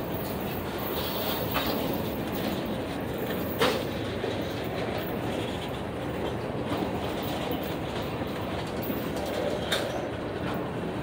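Freight train of tank cars and centerbeam flatcars rolling past at close range: a steady rumble of steel wheels on the rails, with a few sharp clacks from the wheels on the track, the loudest about three and a half seconds in.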